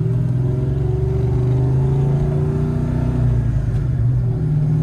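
Ford Mustang race car's engine running steadily at a light cruise, heard from inside the cabin as a loud, even drone whose pitch holds nearly level. The engine is still cold and is being driven gently to warm it up.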